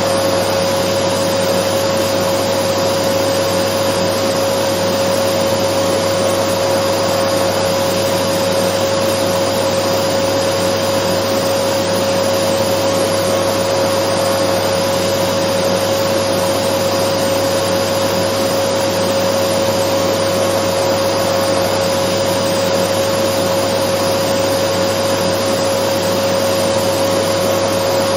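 Dyson vacuum cleaner running continuously: an even rush of air with a constant steady hum over it, unchanging throughout.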